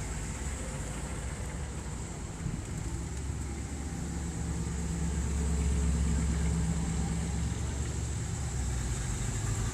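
Classic car engine running with a low, steady rumble that swells for a few seconds in the middle, then eases off.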